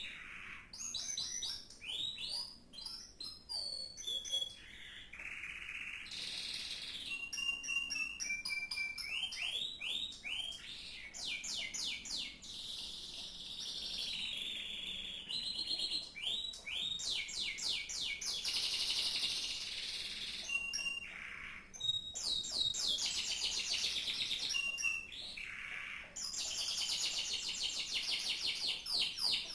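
Domestic canary singing a long, continuous song of rapid trills, repeated sweeping notes and held whistles.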